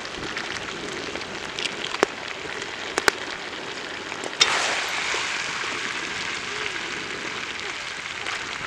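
Chicken pepper fry sizzling in a large black kadai as it is stirred with a perforated steel ladle. Sharp clinks of the ladle striking the pan come about two, three and four and a half seconds in, and the sizzle grows louder after the last one.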